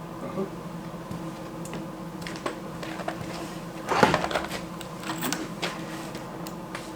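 Scattered clicks and knocks of hands and tools at work on a wooden frame, with a louder short clatter about four seconds in, over a steady hum.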